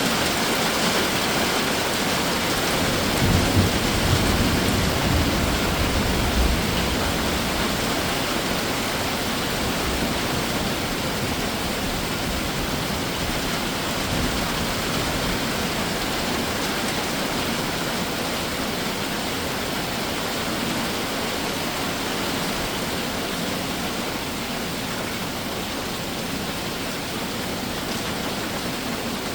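Summer rain shower falling steadily as a dense, even hiss, with a low rumble about three to six seconds in.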